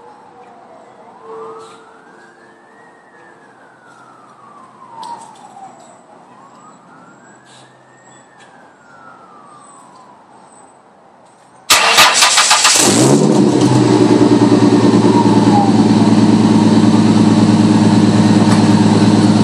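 A distant siren wails, rising and falling slowly. About twelve seconds in, a 1998 Ford Mustang's 3.8-litre V6 cranks and catches abruptly, then settles into a loud, steady idle through its glass-pack mufflers, H-pipe and duals with no catalytic converters.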